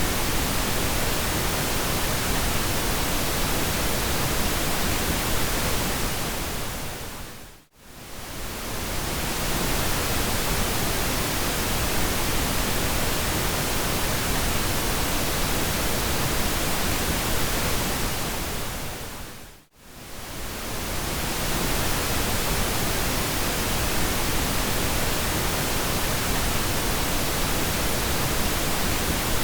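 Steady generated pink noise, an even hiss spread across all pitches. It fades down to near silence and back up twice, about eight seconds in and again about twenty seconds in, where the loop joins.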